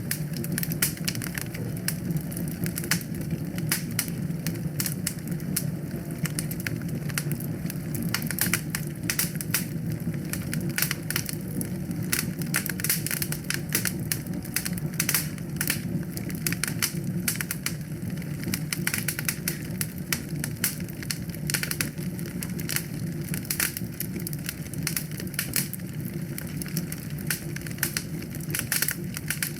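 Wood fire crackling in a fireplace: rapid, irregular snaps and pops over a steady low rumble of the flames.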